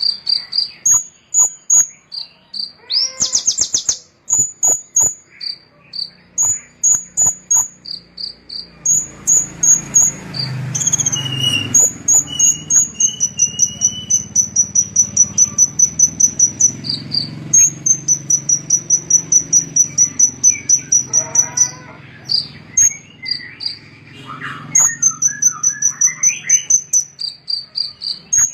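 Small songbird singing: high-pitched short chirps and whistled notes, with a long run of fast, evenly repeated high notes through the middle.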